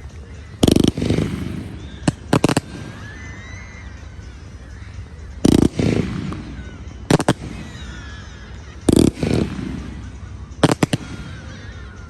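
Low-noise display fireworks going off in three rounds, a few seconds apart. Each round is a dull boom with a short rumble after it, followed about a second and a half later by two or three sharp cracks.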